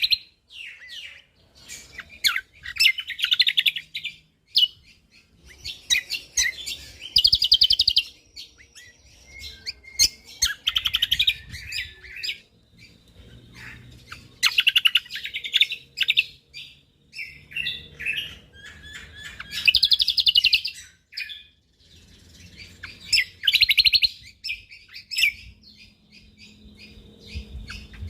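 Cucak kombok (kecial kombok) songbird singing in rapid, dense bursts of chattering phrases about a second long, high-pitched and repeating every three to four seconds, with scattered quieter chirps between.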